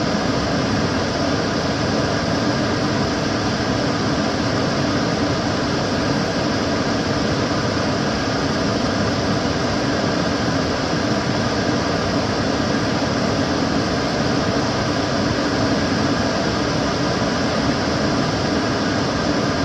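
Kitchen cooker hood extractor fan running steadily, a constant rushing of air with a low hum and no change.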